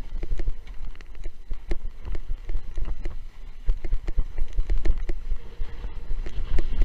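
Windsurfing on choppy water in strong wind: wind buffets the microphone as a heavy rumble, while water slaps and knocks irregularly against the board, several times a second.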